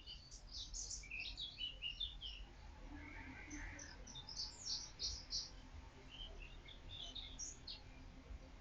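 Small birds chirping faintly in the background, a steady scatter of short, high calls.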